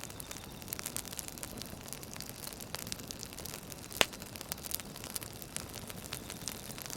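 Campfire crackling: a steady soft hiss with scattered pops and snaps, one sharper pop about four seconds in.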